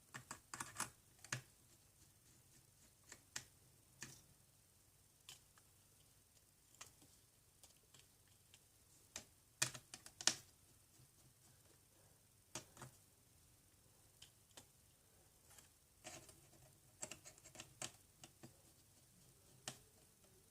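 Faint, irregular clicks and taps of small repair tools on an iPhone 7 as its tri-point screws are taken out, a few louder clicks about halfway through.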